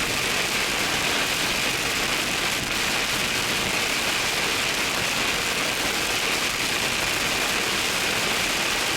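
Heavy, near-blinding rain pelting a car as it drives along a highway, a dense, steady hiss.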